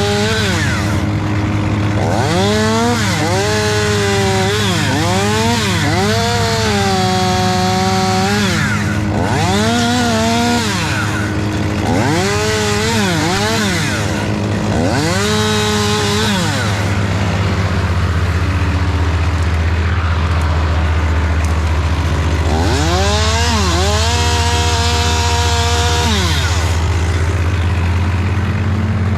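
Two-stroke chainsaw revving up and down about six times, dropping to a lower held pitch now and then as it bogs into a cut. There is a pause of several seconds before it revs again near the end. A steady low engine hum runs underneath throughout.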